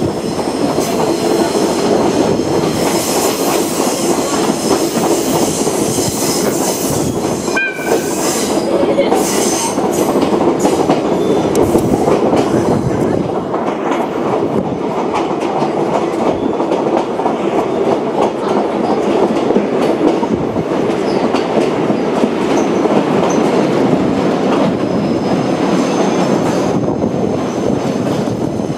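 Running noise of a Watarase Keikoku Railway torokko sightseeing train, heard from aboard while it moves: a steady rumble of steel wheels on the rails.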